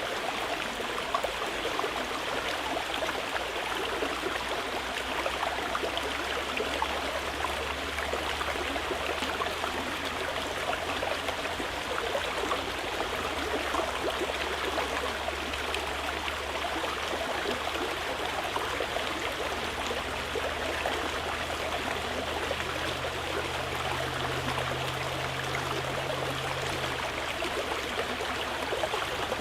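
Mountain river flowing: a steady rushing of water.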